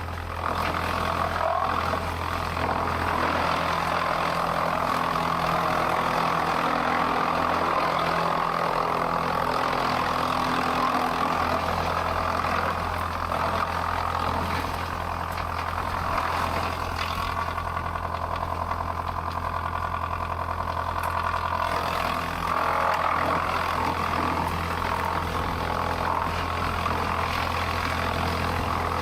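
Heavy machinery running steadily: a continuous engine-like drone with a constant low hum.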